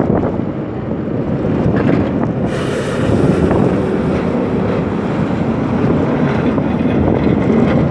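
Wind buffeting the microphone in a blizzard: a loud, steady, rumbling rush with no let-up.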